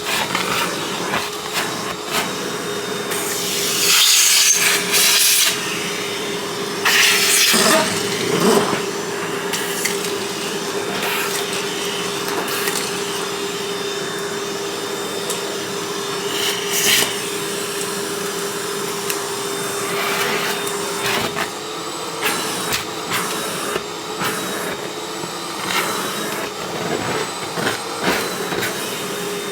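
Vacuum cleaner running with a steady hum. Louder bursts of clattering about four and seven seconds in, as small pieces are sucked up, and lighter scraping strokes after that.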